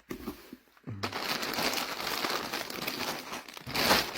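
Plastic packaging crinkling and rustling in the hands, starting about a second in and growing louder near the end.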